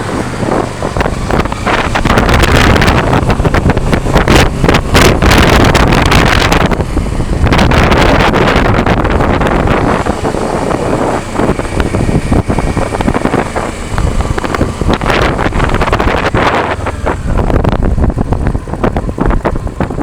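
Loud wind buffeting an action camera's built-in microphone on a Kawasaki Versys 650 motorcycle under way, with the bike's 649 cc parallel-twin engine running beneath the gusts. The buffeting eases somewhat near the end.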